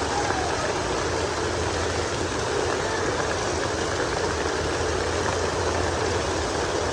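Heavy rain falling: a steady rushing hiss with a low rumble underneath.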